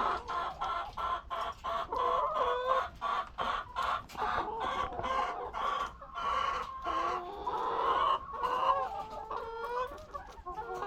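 A flock of laying hens clucking and calling, many short overlapping calls one after another.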